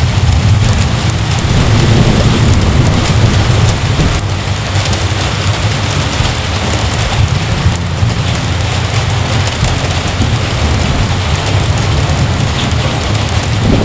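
Heavy rain falling steadily, with a continuous low rumble underneath and scattered drop ticks.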